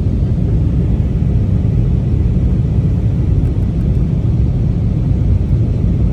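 Airliner cabin noise in flight: a steady, loud, low rumble of engines and airflow heard from inside the passenger cabin.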